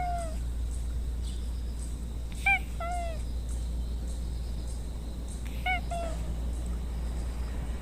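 A stray cat meowing insistently: short high meows in quick pairs, each sliding down in pitch at the end, coming about every three seconds, over a steady low rumble.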